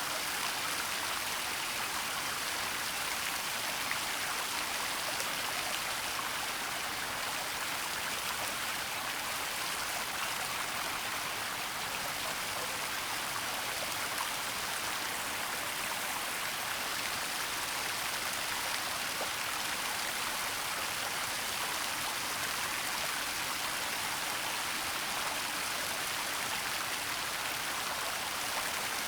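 Waterfall with water running and splashing steadily: an even hiss that does not change.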